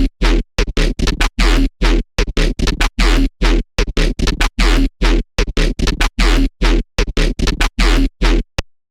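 Noisy electronic synth patch from the Serum software synthesizer, its wavetable made from an AI-generated image, played as a fast, irregular run of short staccato hits with a heavy sub-bass and dead silence between them. It stops shortly before the end.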